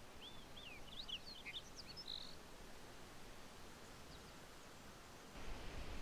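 A small bird twittering, a quick run of short chirps in the first two seconds, over a faint hiss of open air. Near the end, a louder, steady rustling hiss sets in.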